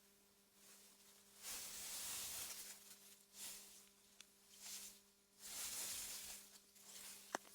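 Faint wind through meadow grass, hissing in soft gusts that swell and fade every second or so, over a faint steady low hum. There is a single sharp click near the end.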